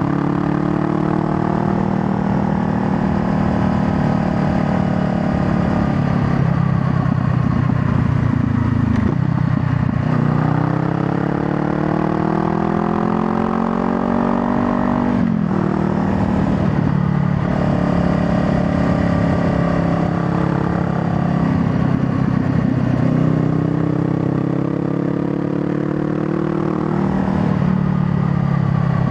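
Honda Rebel 500's parallel-twin engine under way, revs easing off for several seconds, then climbing steadily through a gear. The revs drop sharply at a shift about halfway through, then rise and fall a few more times.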